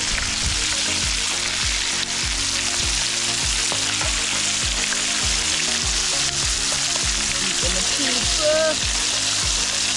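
Flour-coated fish frying in hot oil in a pan: a steady, dense sizzle. Background music with a regular beat runs underneath.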